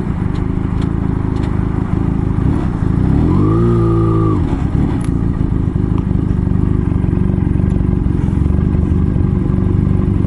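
Motorcycle engine running under way with a steady rumble of wind and road noise; about three seconds in the engine note rises, holds briefly, then drops away.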